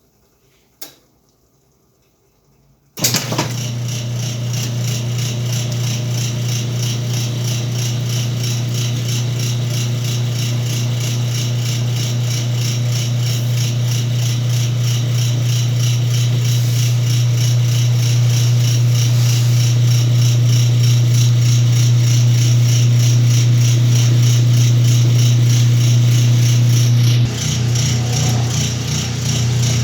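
Whirlpool washing machine starting up about three seconds in and running with a steady loud hum and a fast rattle; the hum shifts in pitch near the end.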